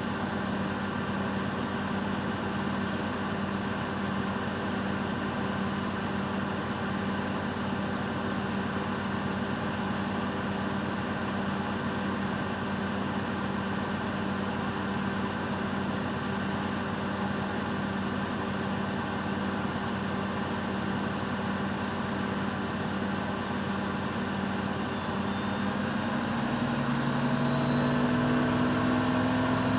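Miele Novotronic W822 washing machine in its final spin: the motor and drum run with a steady hum, then near the end the pitch starts rising and it grows louder as the drum speeds up.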